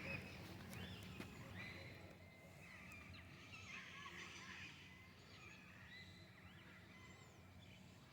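Faint chorus of several birds chirping and calling over one another, busiest in the middle, over a steady low hum.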